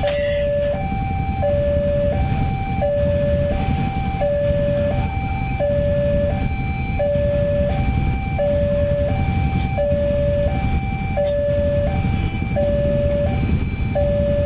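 Railway level-crossing warning alarm sounding a two-tone high-low signal, each tone held about 0.7 s and repeating steadily, over a steady low rumble.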